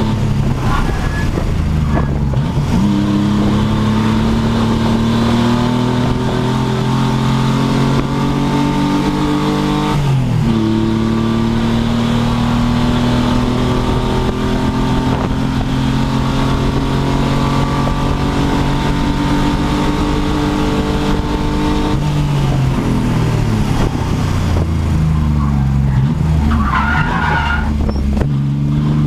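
Pontiac Fiero race car engine under hard acceleration, its pitch climbing in each gear and dropping at upshifts about two and a half and ten seconds in. From about 22 seconds on the pitch falls in steps as the car slows and shifts down.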